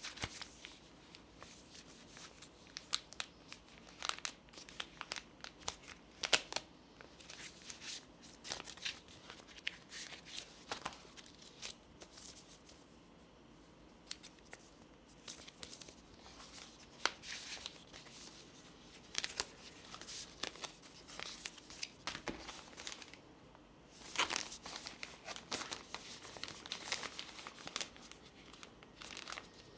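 Unboxing packaging being handled: crinkling and tearing of wrapping, with scattered sharp clicks and taps. It goes quieter for a few seconds around the middle, then gets busier again near the end.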